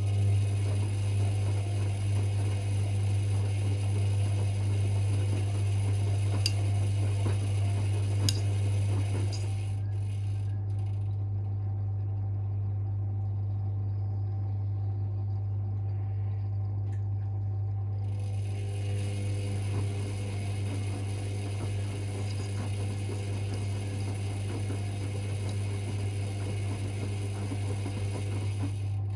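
Privileg 5020 front-loading washing machine on its wash cycle: the motor turns the drum with a whine for about ten seconds, stops for about eight, then starts again. A steady low hum runs throughout, with two sharp clicks while the drum turns. Its motor is one that, in the owner's words, audibly tells how many loads it has washed.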